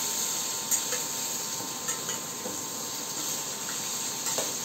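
Cut okra sizzling in hot oil in a stainless steel pan, with a few light clicks of a steel spatula against the pan as it is stirred.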